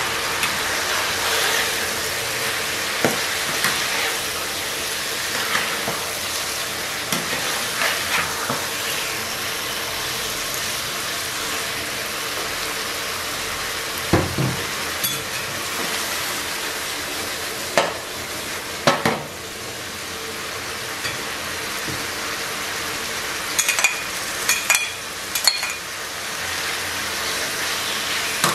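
Slices of congealed chicken blood sizzling in oil in a non-stick frying pan. A metal spatula scrapes them about and knocks against the pan, and the sharpest knocks come around the middle and in a cluster near the end.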